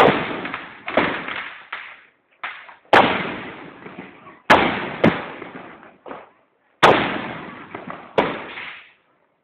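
Aerial fireworks going off: a string of sharp bangs, about one a second, with the loudest every second and a half or so. Each bang trails off in a long echoing rumble.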